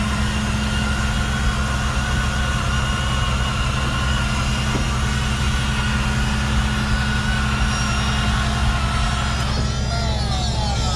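A vehicle engine idling steadily. Near the end, several high-pitched tones sweep downward over it.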